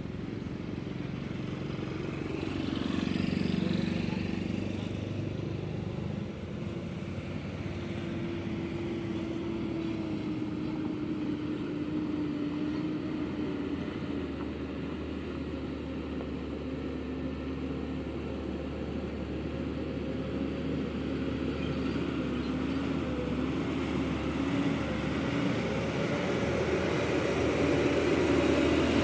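Heavy truck engine running steadily, its pitch drifting, with a brief swell about three seconds in and the sound growing louder toward the end.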